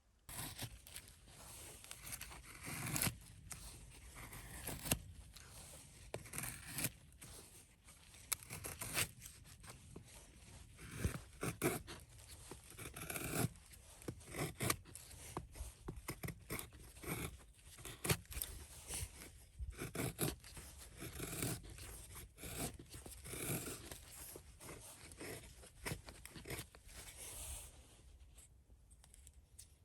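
Close, irregular scraping, rubbing and sharp clicking, as of objects being handled and worked by hand, with no steady rhythm.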